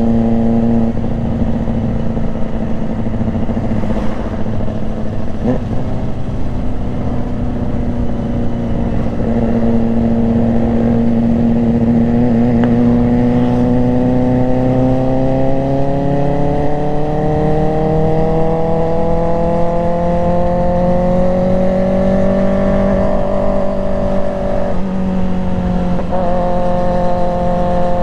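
Motorcycle engine running under way, its pitch holding steady, then climbing slowly as it speeds up, and dropping suddenly near the end with a gear change.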